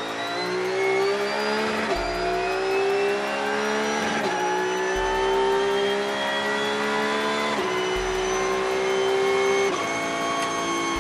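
Race car engine accelerating hard through the gears: the pitch climbs steadily, then drops sharply at each upshift, about four times.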